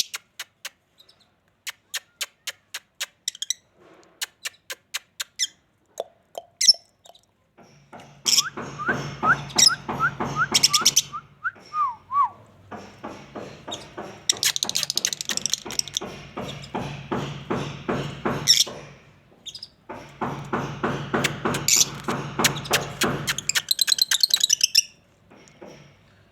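Small parrots calling: separate sharp chirps for the first several seconds, then dense, rapid chattering from about eight seconds in, in long runs broken by short pauses.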